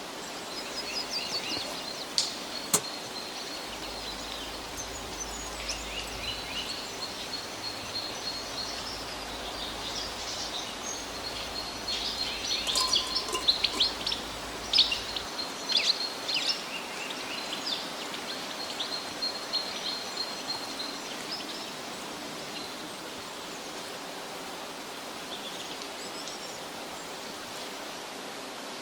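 Songbirds chirping and calling in quick, varied phrases over a steady background hiss, busiest around the middle and fading out about two-thirds of the way through.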